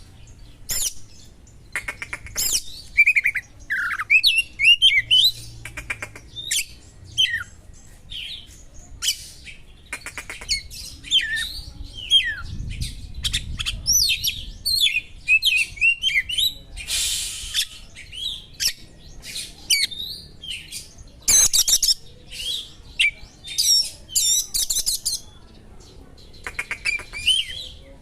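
Oriental magpie-robin (kacer) singing a fast, varied song of sharp chirps, whistles and buzzy trills, packed with imitated small-bird phrases. A short harsh buzzy note comes about two-thirds of the way through, followed by bursts of rapid trills.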